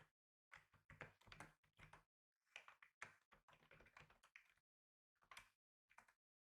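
Faint computer keyboard typing: runs of rapid key clicks in bursts of one to two seconds with short pauses between, then two brief bursts of keystrokes near the end.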